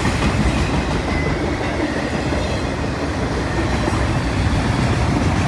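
CN freight train cars rolling past at speed: a steady rumble and clatter of steel wheels on the rail joints, with a faint high wheel squeal.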